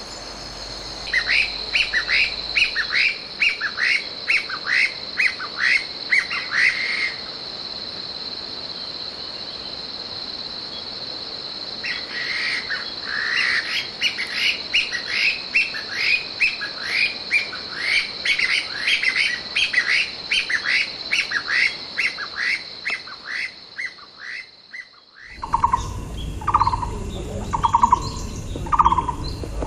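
Wild bird singing a fast series of short, falling, high notes, about two a second, in two bouts, over a steady high-pitched buzz. Near the end a different bird takes over with lower, evenly spaced notes about once a second.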